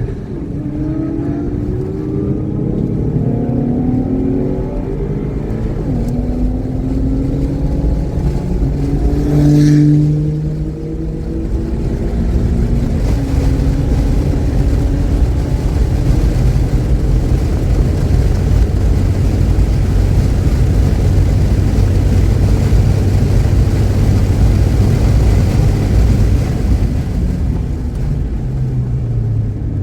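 Car engine at speed on a race track, climbing in pitch again and again through the first ten seconds as it accelerates, with a short sharp crack just before it drops back, then holding a steadier note under heavy low road and wind noise. The engine is running cleanly, without misfiring.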